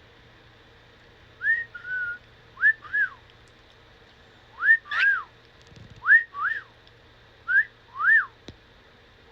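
Cockatiel whistling a repeated two-note phrase, a short rising note then an arched rise-and-fall note, about six times over.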